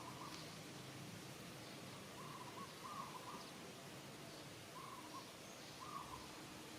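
Faint short tonal animal calls, about five of them, each a fraction of a second long, over a steady low background hiss.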